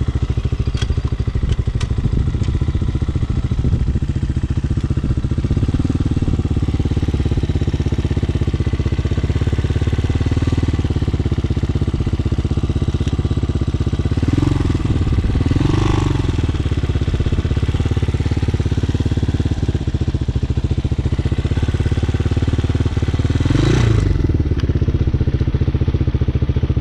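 Hawk 250cc single-cylinder dirt-bike engine running steadily under way, with the revs rising briefly a few times around the middle and again near the end.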